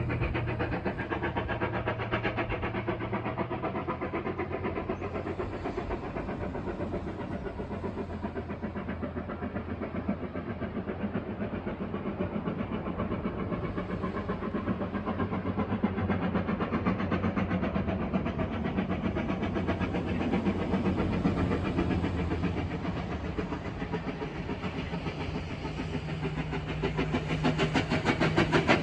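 Narrow-gauge K-36 2-8-2 steam locomotive #481 working with a train, its exhaust beating in a quick steady rhythm, growing louder near the end.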